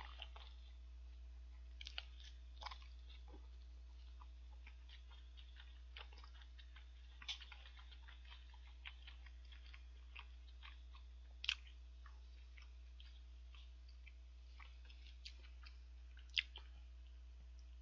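A man chewing a mouthful of hamburger close to a microphone: soft mouth clicks scattered throughout, with a few louder ones. A steady low hum runs underneath.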